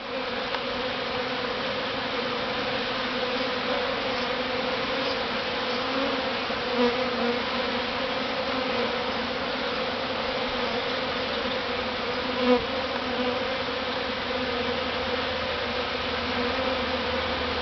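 Steady, dense buzzing of a large honey bee swarm heard at close range, many wingbeats blending into one hum. Now and then a single bee passes close, louder for a moment about 7 and 12 seconds in.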